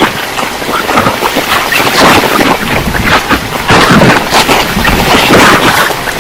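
Storm of torrential rain and gusting wind, loud and surging, swelling and easing every second or so.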